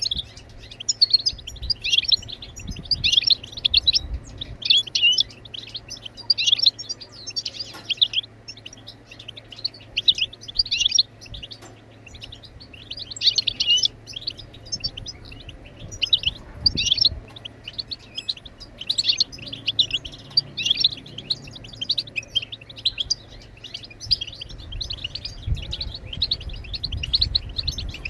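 European goldfinch twittering: quick, high chirps run together in short phrases, one after another with brief gaps.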